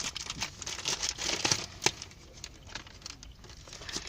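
Plastic packaging crinkling and crackling in irregular bursts as balls are unwrapped by hand.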